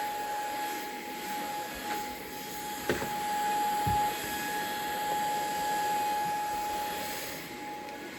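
A household appliance motor running steadily, a constant hum with a steady whine over a rushing noise, with a couple of light knocks about three and four seconds in.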